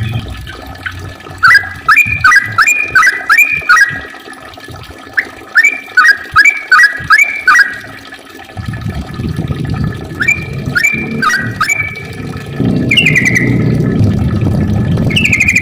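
Yellow-vented bulbul singing in bursts of about four to six quick bubbling notes, with short pauses between bursts. A steady low rushing noise comes in about halfway and grows louder near the end.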